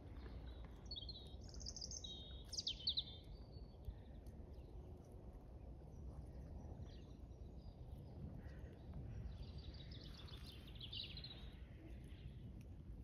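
Wild birds singing: a few bright chirps between about one and three seconds in, then a longer trill near the end. Under them runs a steady low outdoor rumble.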